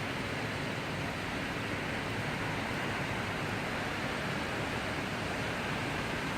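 Steady heavy rain, an even rushing hiss with no thunder in it.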